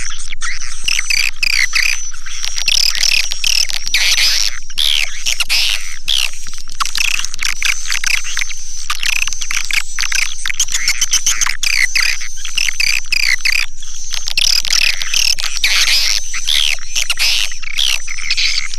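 Recorded swiftlet calls: a dense, continuous twittering of overlapping chirps, with a steady high tone running beneath them, as in a swiftlet-house lure track.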